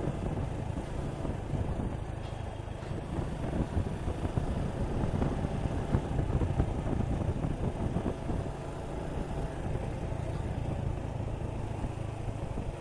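Suzuki Gixxer 155 single-cylinder motorcycle engine running at riding speed, heavily mixed with wind rushing over the microphone.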